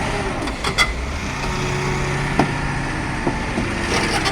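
Loaded coal truck's diesel engine pulling hard under load as it climbs out of a deep pothole, with a few sharp knocks from the truck.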